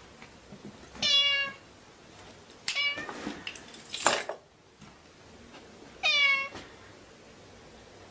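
Domestic cat meowing: two clear meows, about a second in and about six seconds in, each dropping in pitch at the end, with shorter, rougher sounds in between.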